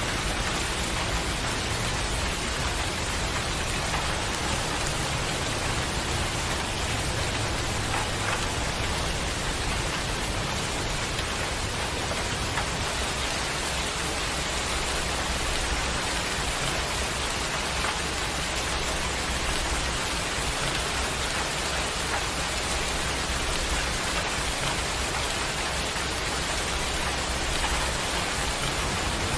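Steady heavy rain falling at night, an even dense hiss of rain on surfaces with scattered drop ticks.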